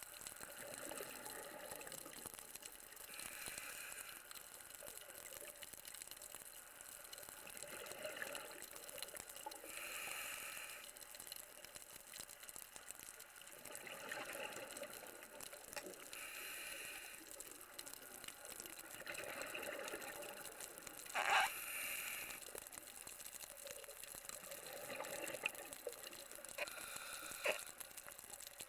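Underwater sound of a scuba diver's regulator breathing: exhaled bubble bursts come and go every few seconds over a steady watery hiss. A short, loud squeak about three-quarters of the way through and a couple of sharp clicks near the end.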